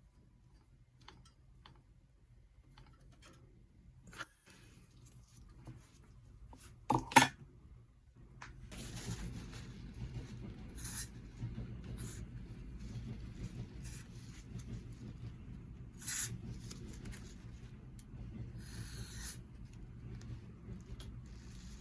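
Hand-work noises on bicycle parts and tools: a few light clicks, a loud sharp clank about seven seconds in, then a steady low rubbing with occasional clicks.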